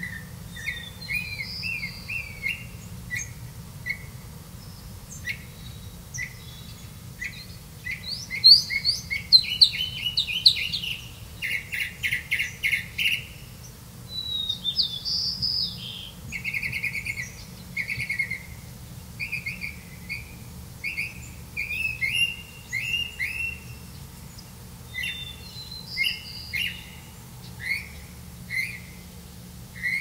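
Small songbirds chirping: a long run of short, high chirps and quick trills, loudest between about eight and thirteen seconds in.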